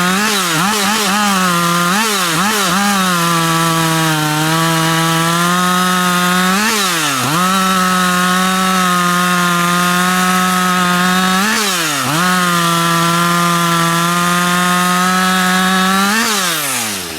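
Large two-stroke chainsaw at full throttle cutting through a log. Its engine note wavers a few times early on and dips briefly twice as the chain loads up. Near the end the throttle is let off and the pitch falls away.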